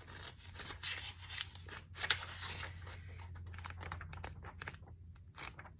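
Paper pages of a booklet being flipped through quickly: a steady run of rustles and page flicks, over a faint low hum.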